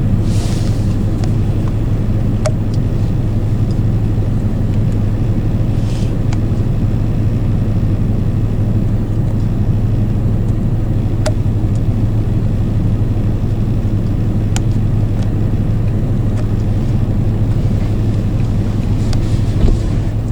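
A steady low hum of an idling motor-vehicle engine with a few faint clicks.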